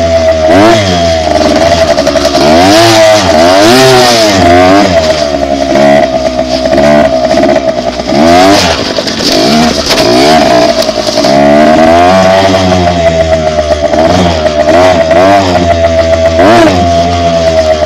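Dirt bike engine being ridden, the throttle opened and closed again and again so the engine note keeps rising and falling.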